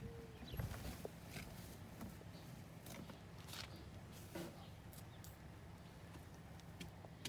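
Faint footsteps on a hard surface, with scattered light clicks and knocks over a low steady background rumble.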